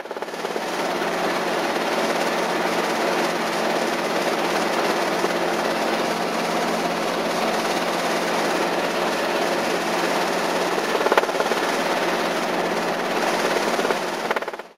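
Robinson R22 helicopter's four-cylinder Lycoming O-320 engine and rotors running steadily, with one short click about eleven seconds in.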